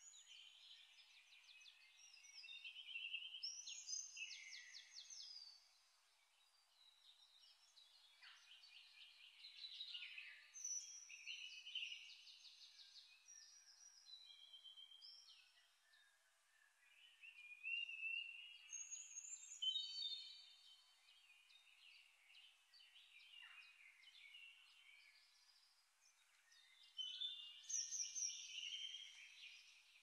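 Faint birdsong: several whistled phrases and rapid chirping trills, coming in louder bouts about every eight seconds.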